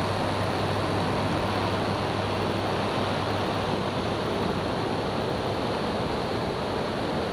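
Light single-engine experimental airplane's engine and propeller at full power on its takeoff roll, a steady drone heard inside the cabin with a constant low hum.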